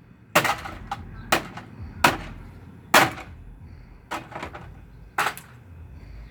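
A Whirlpool Duet front-loading washing machine being smashed: a series of hard blows, about one a second, with a few lighter knocks between.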